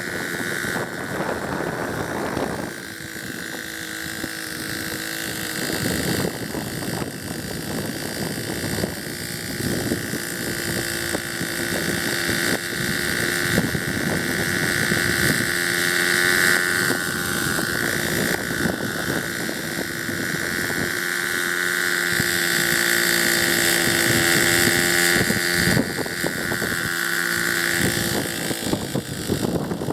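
Engine-powered Hirobo Sceadu RC helicopter running in flight: a steady high engine whine with rotor noise, growing louder through the middle and dipping briefly partway through, with wind on the microphone.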